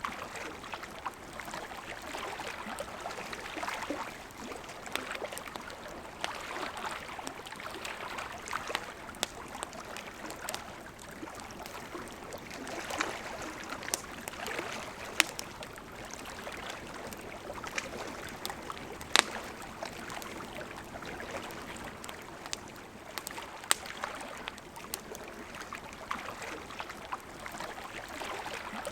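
River water running steadily, with a campfire crackling over it in sharp, scattered pops. The loudest pop comes about two-thirds of the way in.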